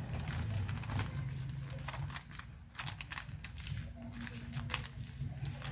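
Stiff calendar paper being folded and creased by hand, crinkling in a run of short sharp crackles, over a low steady hum.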